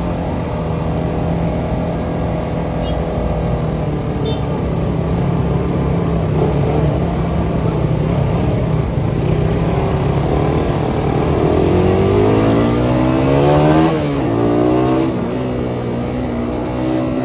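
Suzuki Satria FU 150's single-cylinder four-stroke engine through its CBU Thailand exhaust, running at a steady pitch, then revving up for about three seconds before the pitch drops sharply and settles again.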